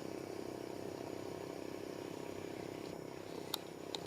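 Steady low motor hum, with two short sharp clicks near the end.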